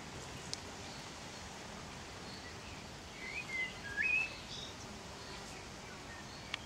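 A bird chirping briefly in the middle, a few quick gliding notes, over a steady outdoor background hiss, with a couple of faint clicks.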